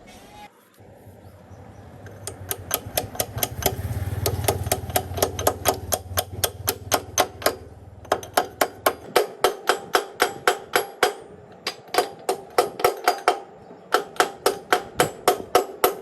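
Hammer striking metal in quick runs of evenly spaced blows, about three to four a second, with short pauses between the runs.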